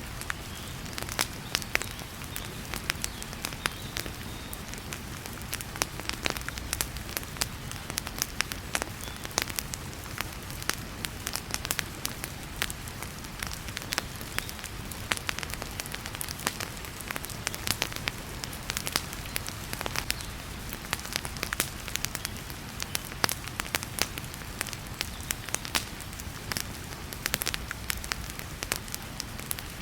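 Wood fire in a fireplace crackling, with frequent sharp irregular pops over a steady hiss of heavy rain.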